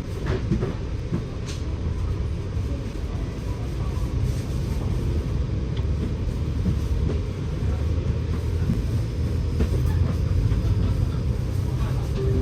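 Scania K94UB single-deck bus heard from inside the cabin while under way: a steady low engine and road rumble, with scattered light rattles and clicks.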